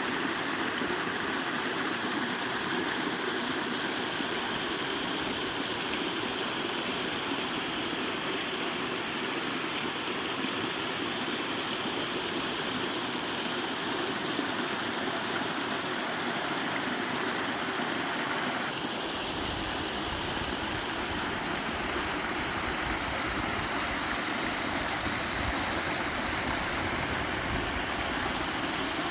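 Small mountain waterfall pouring steadily into a stream: a constant rushing of water. About two-thirds of the way through, a deeper low rumble suddenly joins it.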